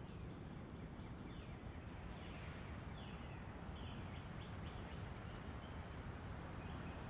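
A bird repeating a short, downward-slurred call roughly once a second, stopping about four and a half seconds in, over a steady low background rumble.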